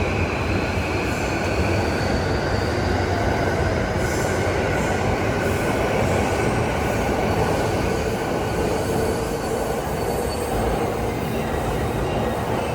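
Electric commuter train moving alongside the platform: a steady rumble of wheels on rail with thin high whining and squealing tones that drift slightly in pitch.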